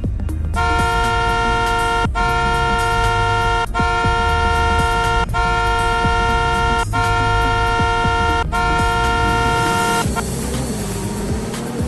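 A dual-tone vehicle horn sounding in a run of long blasts, each about a second and a half, with barely a gap between them. It starts about half a second in and stops about ten seconds in, over background music with a low steady beat.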